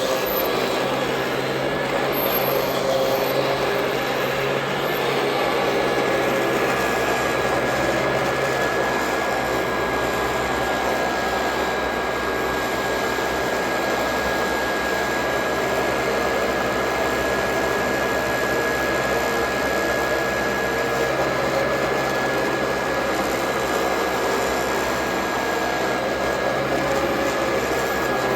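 Royal Model 2008 upright vacuum cleaner running steadily, a motor rush with a held high whine; a low rumble joins about six seconds in.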